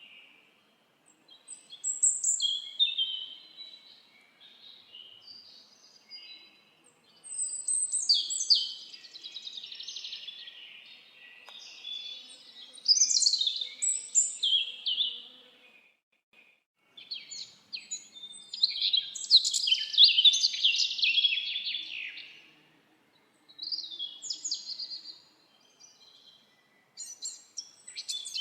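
Songbirds singing in bursts of rapid high chirps and trills, phrase after phrase with short pauses between, the longest and loudest run about eighteen to twenty-two seconds in.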